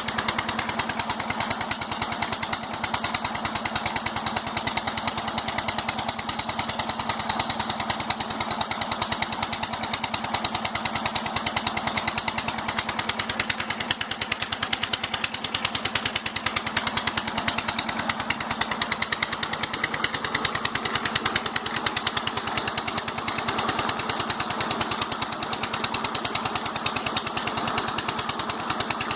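16 HP diesel engine running steadily, driving a water pump, with a rapid, even beat that does not change.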